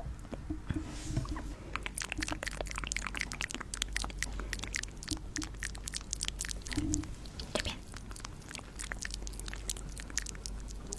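Close-miked crisp crackling and clicking of small hard objects being handled and rubbed, many quick ticks a second.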